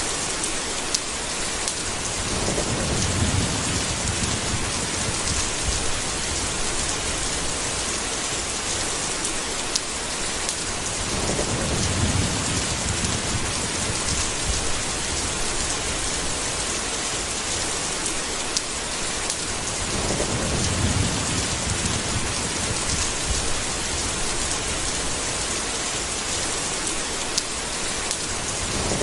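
Steady heavy rain with three low, rolling rumbles of thunder, coming about every nine seconds.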